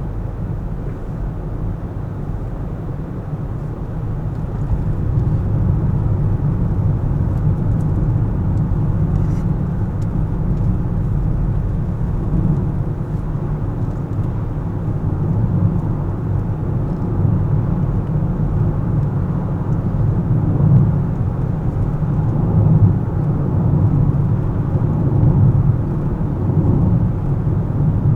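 A car driving in city traffic: a steady low rumble of tyre and engine noise that gets a little louder about five seconds in.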